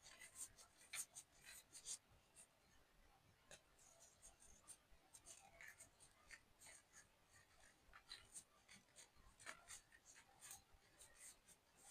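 Faint, irregular crisp crackles and small crunches of a block of corn starch and gym chalk being crumbled and crushed.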